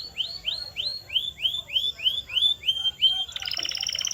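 Canary singing: a phrase of about a dozen separate rising, swooping notes, around three a second, that switches near the end into a fast rolling trill.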